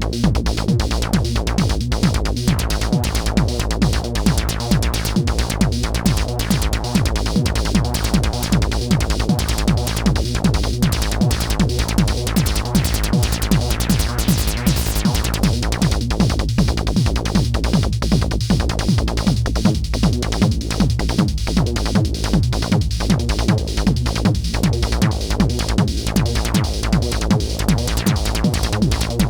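Techno played live on a homemade DIY modular synthesizer, dry with no effects: a steady electronic beat with heavy bass and repeating synth patterns over it.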